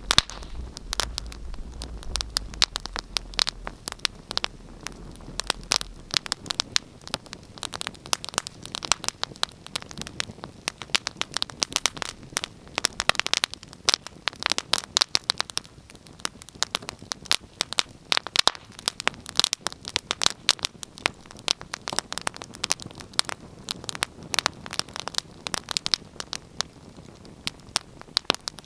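Wood fire crackling, with many irregular sharp pops and snaps throughout.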